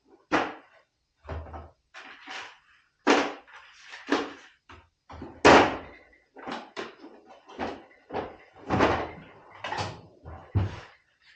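A string of irregular knocks and bangs, about a dozen spread over several seconds, from hard objects being handled and set down; the loudest comes about halfway through.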